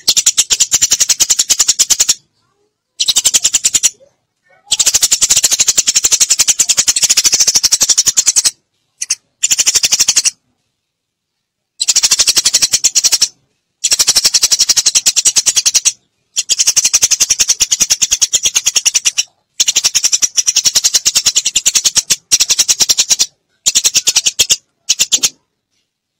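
Eurasian tree sparrows chattering: dense runs of rapid, high chirps in bursts of one to four seconds, broken by abrupt, completely silent gaps, as in an edited, looped lure recording.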